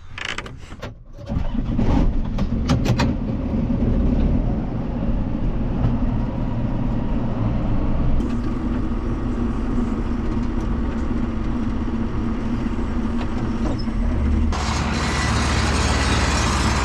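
A few clunks, then a farm tractor's engine running steadily under the cab. Near the end a louder rushing noise joins it.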